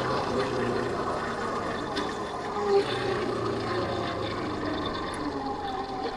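Yamaha Factor 150's single-cylinder engine running steadily and fairly quietly while riding, over a steady rush of wind and road noise.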